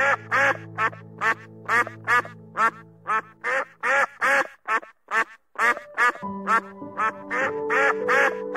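Mandarin duck calling in a steady series of short, arching calls, about two a second, with a brief lull about halfway through. Background music with held notes runs underneath.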